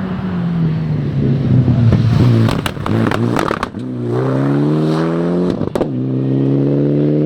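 Four-wheel-drive rally car engine coming off the throttle into a corner with pops and crackles on the overrun, then accelerating hard away, the pitch climbing, a sharp crack at an upshift about two-thirds of the way in, then climbing again.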